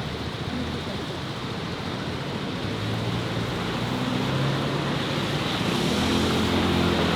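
City street traffic noise, with a motor vehicle's engine growing louder as it draws near in the second half.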